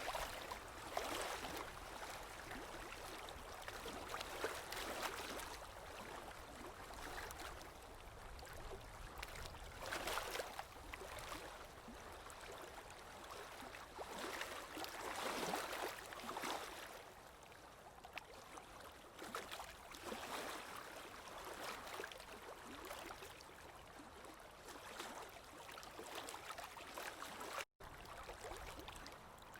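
Running water, a continuous splashing rush that swells and eases in surges every few seconds, with a momentary dropout near the end.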